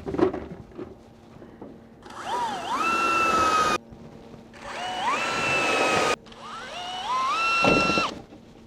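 Power drill running in three bursts of one to two seconds each, the motor whine climbing in pitch as it spins up, then holding steady and cutting off; it is working into clear corrugated PVC panels. A few knocks come just before the first burst.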